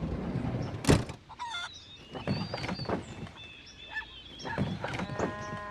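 Goat footage sound: knocks and thumps with background noise, a sharp knock about a second in, and a short goat bleat near the end that cuts off.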